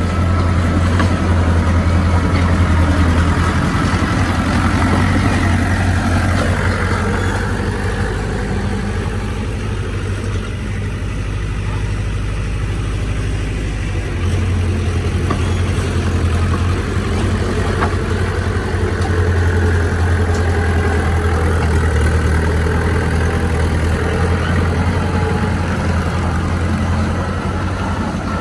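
Heavy diesel engine of earthmoving machinery running continuously. Its low hum eases off about a quarter of the way in and comes back stronger about halfway through, as the load changes.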